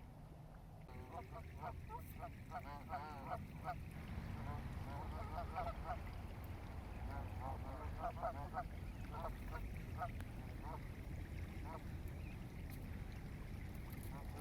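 A flock of waterfowl calling: many short calls overlapping in irregular clusters, starting about a second in, over a steady low rumble of wind or moving water.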